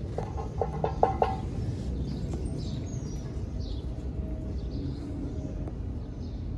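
Bird calls: a quick run of about five short notes about half a second in, then scattered faint high chirps, over steady background noise.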